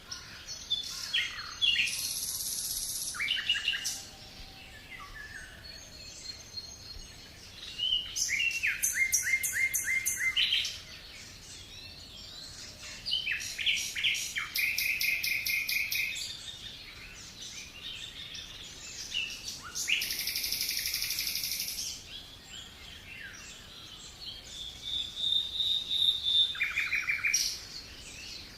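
Songbirds singing: about five separate bursts of rapid trills and chirps, each a couple of seconds long, a few seconds apart.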